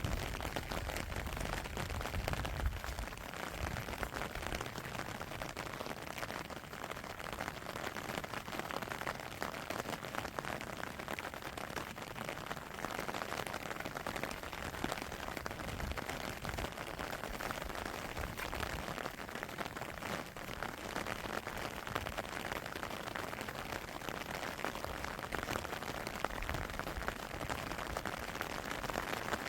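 Steady rain falling, a dense patter of drops. A low rumble dies away in the first few seconds.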